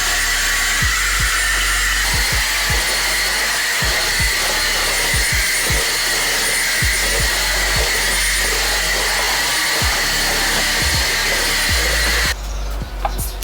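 Vacuum cleaner running steadily with a whine, switched off abruptly near the end. Light clicks and clatter follow.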